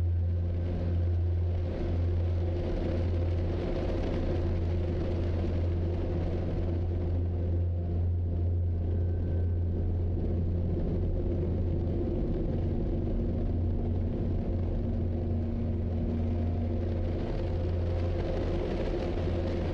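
Steady low vehicle rumble with a constant engine hum.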